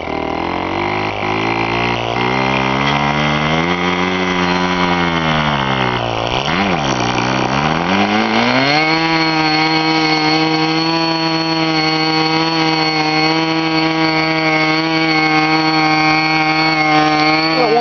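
K&B Fuji .05 two-stroke glow model airplane engine running. Its speed rises and falls, dips low about six and a half seconds in, then climbs back and runs steadily at high speed from about nine seconds on.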